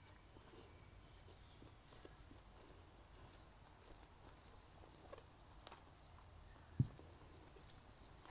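Faint close-miked chewing: soft wet mouth clicks and crackles from a person eating, with one short low thump about seven seconds in.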